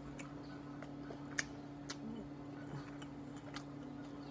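Faint closed-mouth chewing of a mouthful of food, with a few small clicks, over a steady low hum.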